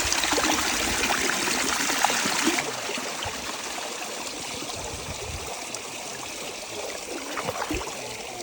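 Steady trickling and splashing of water in a natural hot spring pool, louder for the first couple of seconds and then softer.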